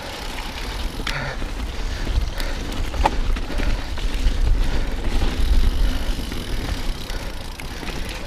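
Mountain bike riding down a rough, wet descent: a low, uneven rumble of wind and ride noise on the camera microphone, with tyre noise and scattered clicks and rattles from the bike.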